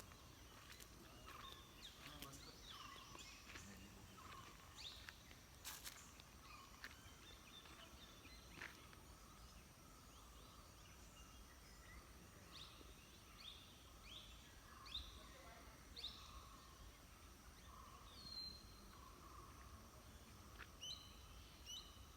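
Near silence: faint rural ambience with scattered short bird chirps, a run of them in the middle and a few more near the end, and one faint click about six seconds in.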